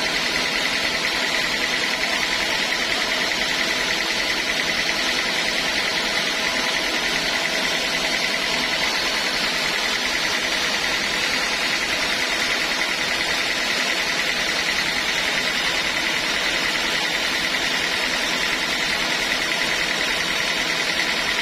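Sawmill machinery running steadily: a constant mechanical hum with a steady high whine on top and no pauses or changes.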